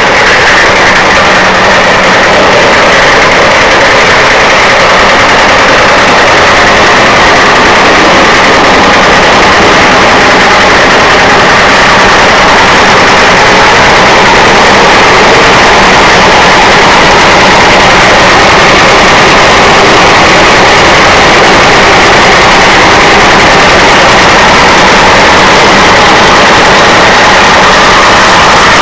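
Hatz E79 single-cylinder diesel engine running steadily, very loud.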